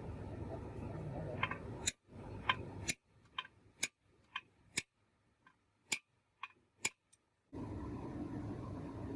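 A steady low background rumble that cuts out about two seconds in. A run of sharp, short ticks follows, roughly one a second, before the rumble returns near the end.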